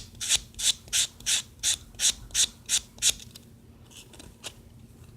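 Sponge nail buffer rubbed back and forth over acrylic on a thumbnail to smooth out bumps: even, scratchy strokes about three a second, stopping about three seconds in, with a few fainter strokes after.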